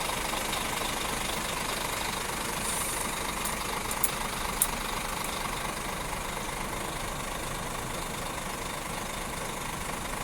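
Scania G410 truck's 13-litre inline-six diesel engine running steadily, with two sharp clicks about four seconds in, half a second apart.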